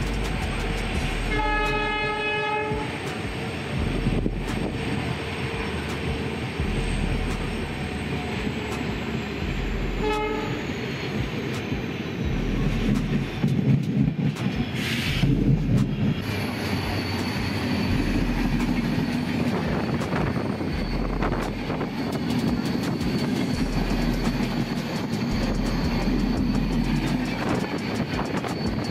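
Express passenger train running on the line with a steady rumble and clickety-clack of the wheels. A train horn sounds one long blast about a second in and a short toot about ten seconds in. There is a brief hiss about fifteen seconds in.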